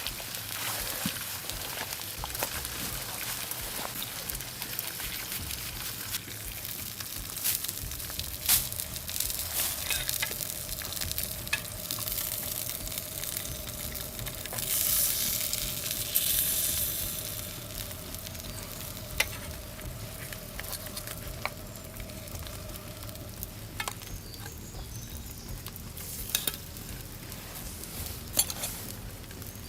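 Food frying in a pan over a campfire: a steady sizzle scattered with sharp pops and clicks. The sizzle swells briefly about halfway through.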